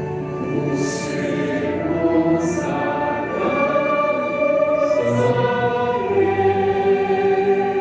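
A chorus of voices singing long held notes together with the music, with sharp 's' sounds about one, two and a half and five seconds in.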